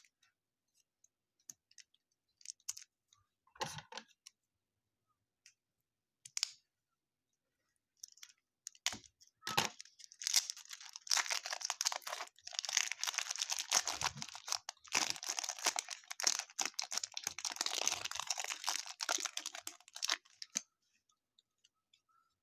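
A few scattered light clicks and taps, then from about eight seconds in a long stretch of crinkling and tearing as a baseball card pack's wrapper is ripped open and crumpled. It stops about two seconds before the end.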